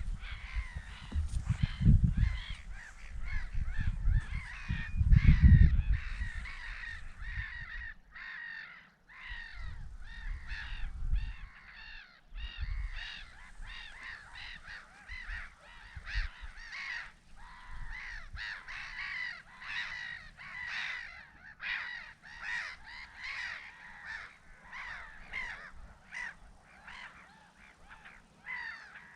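A flock of birds calling over and over with harsh, caw-like calls, many overlapping at once. A low rumble sits under the calls in the first several seconds, then fades.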